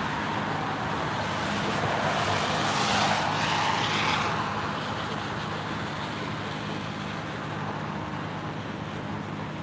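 Road traffic noise: steady engine hum and tyre noise, swelling as a vehicle goes past about three seconds in, then easing off.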